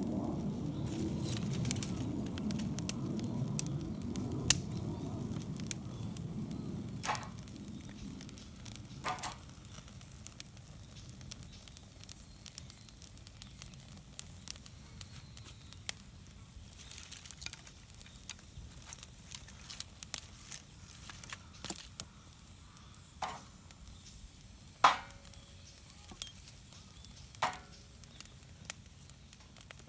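Wood campfire crackling, with scattered sharp snaps and a few louder pops. A low rushing dies away over the first several seconds.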